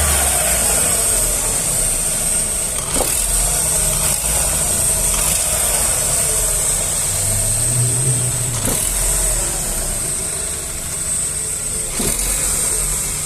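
Chevrolet Astra engine running, heard close up in the engine bay, with a brief rise in revs about seven seconds in. It carries the faint, intermittent engine noise that is being diagnosed, which comes and goes.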